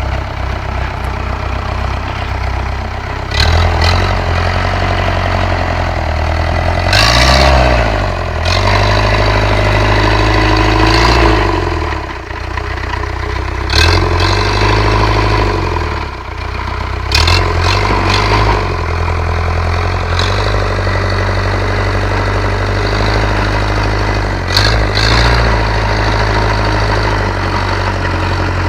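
Engine of a homemade tractor built from an ARO running steadily, revved up and let back down several times, about seven rises in all.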